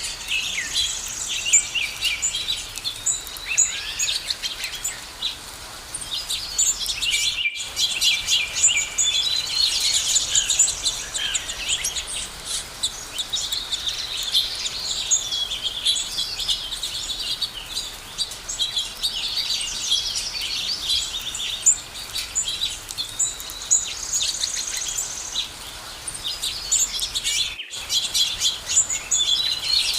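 Many songbirds chirping and singing at once, a dense chorus of short, high calls and trills. The sound drops out for an instant twice, about seven seconds in and near the end.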